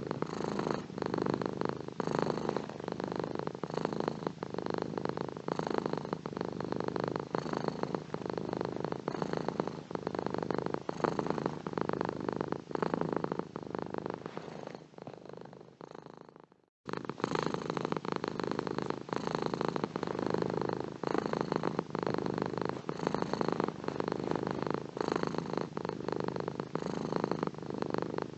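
Domestic cat purring steadily at close range. The purr fades away over a couple of seconds, stops briefly just past the halfway point, then comes back suddenly at full level.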